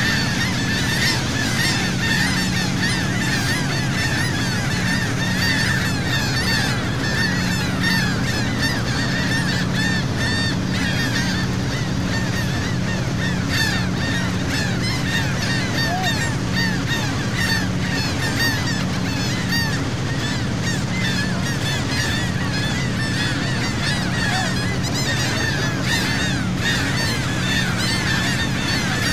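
A large flock of seagulls calling without pause, many short harsh calls overlapping at once, over the steady low drone of a boat's engine.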